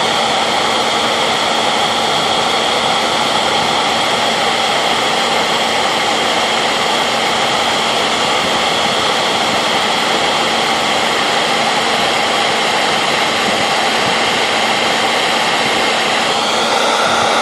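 Handheld hairdryer running on full heat and full fan: a loud, steady blowing with a constant motor hum, its tone changing slightly near the end.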